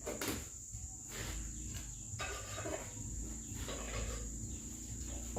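Insects trilling steadily on one high note, under scattered knocks and clatter.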